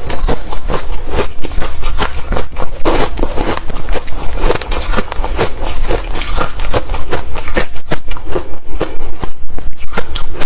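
Chewing hard, refrozen crushed ice: loud, dense crunching that settles into a steady rhythm of about three to four crunches a second near the end.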